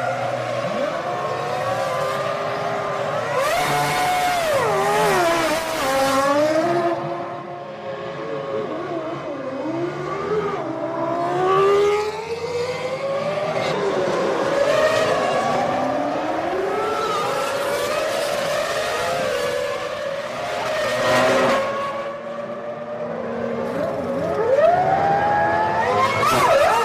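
Formula One cars' 3.0-litre V10 engines at high revs, several cars, the pitch rising and falling repeatedly as they accelerate, shift and pass.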